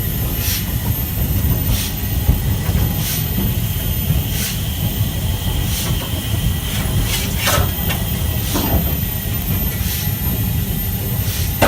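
Stanier 8F steam locomotive hissing steam over a steady low rumble, with short sharp sounds about every second.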